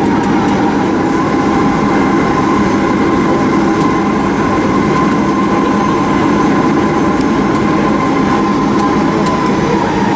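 Boeing 737-800's CFM56-7B turbofan engines running, heard from inside the cabin as loud, steady noise with a steady whine that drops slightly in pitch near the end.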